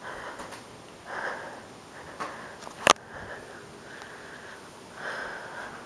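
A person sniffing and breathing through the nose a few times, in short, breathy puffs, with one sharp click about three seconds in.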